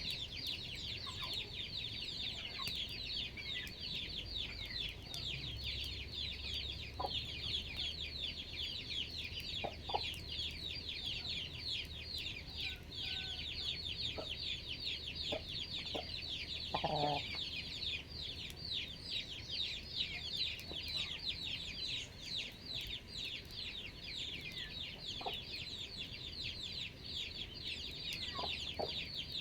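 Chickens clucking now and then over a constant dense chorus of quick, high, downward chirps. One louder call comes about 17 seconds in.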